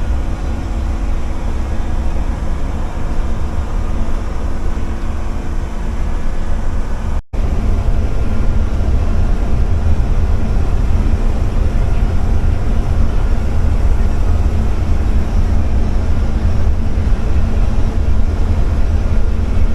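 Steady rumble of a vehicle driving on the road: engine and road noise as heard from inside the cab. The sound cuts out for an instant about seven seconds in, then resumes a little louder.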